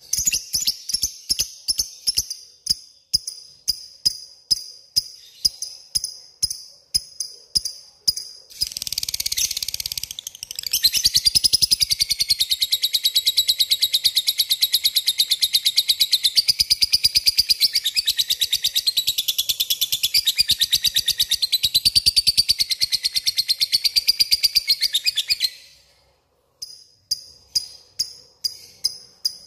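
Lovebird calling: short, high, ticking chirps about twice a second (ngetik), breaking about ten seconds in into a long, rapid, unbroken trill lasting some fifteen seconds (the ngekek), then a brief pause before the ticking chirps start again near the end.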